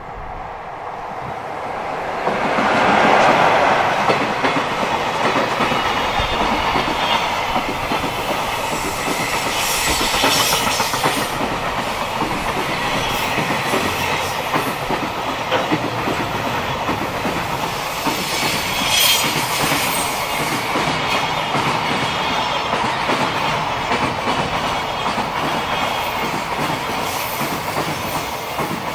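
Electric locomotive passing close by, followed by a long container freight train. The sound swells to a peak about three seconds in, then holds as the wagons' wheels run clickety-clack over the rail joints. There is a brighter wheel screech about a third of the way through and again about two-thirds through.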